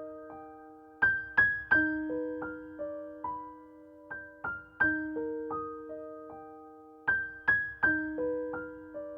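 Gentle background piano music: single notes and chords struck and left to ring and fade, with a short phrase coming back about every three seconds.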